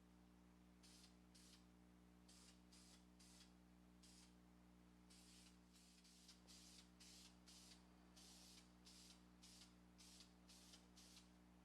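Aerosol spray paint hissing in a long run of short bursts, each under a second, with brief gaps between them. The sound is faint, over a steady low hum.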